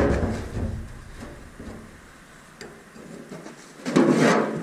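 Metal handling sounds as a No. 80 roller chain is worked in a hand chain-breaker tool: a few faint clicks and clinks, with a louder short scraping rattle about four seconds in.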